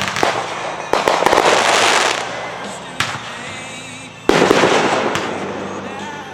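Consumer aerial fireworks going off: a loud burst about a second in and another about four seconds in, each followed by crackling that slowly fades, with a sharp single bang near three seconds.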